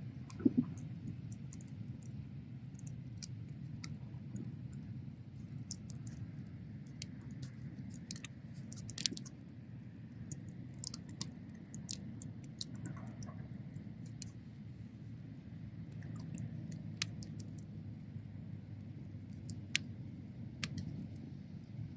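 Wood bonfire burning: a steady low rumble of flames with scattered crackles and sharp pops, a few louder snaps.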